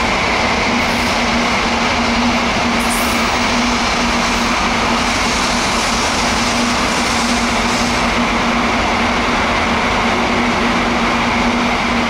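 Tokaido Shinkansen train running past on the station tracks: a loud, steady rush with a low hum and a higher whine that hold at an even pitch.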